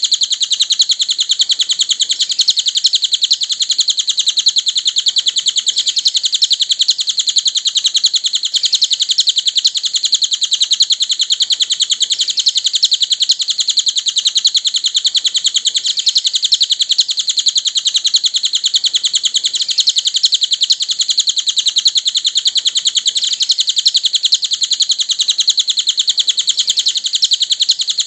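Cililin songbird singing a continuous, very rapid stream of high-pitched chirping notes without a pause, at an even loudness: a masteran recording, a bird song played to teach caged songbirds.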